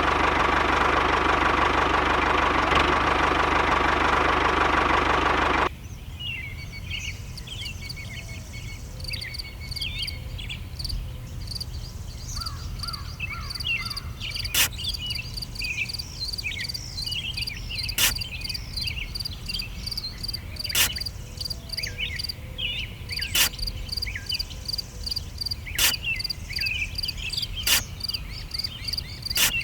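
A loud steady rushing noise that cuts off suddenly about six seconds in. After it come birds chirping and a steady insect trill, with a sharp click every two to three seconds.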